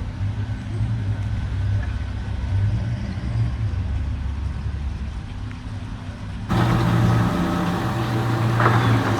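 Car engine running with a steady low rumble. About two-thirds of the way through, the sound abruptly becomes louder and fuller, with a few short knocks near the end.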